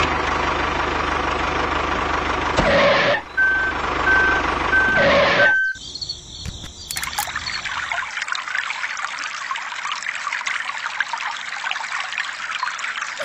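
A small motor runs steadily while four short high beeps sound about three to five seconds in. It cuts off suddenly at about six seconds, and then water trickles and pours for the rest of the time.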